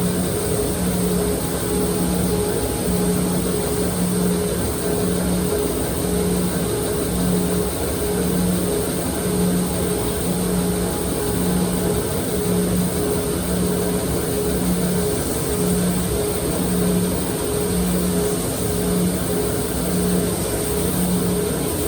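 Powered knife grinder running steadily during a regrind, with a low hum that pulses about twice a second.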